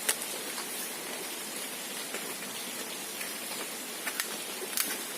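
A few small plastic clicks as snap-together toy dump-truck parts are handled and pushed together by hand, over a steady hiss.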